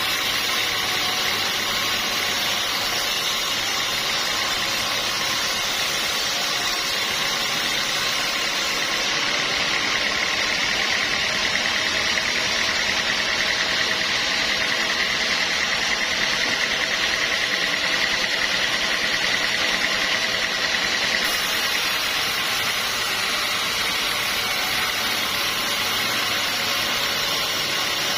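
Sawmill saw running steadily, a continuous machine noise, with a higher steady whine that strengthens for about twelve seconds in the middle.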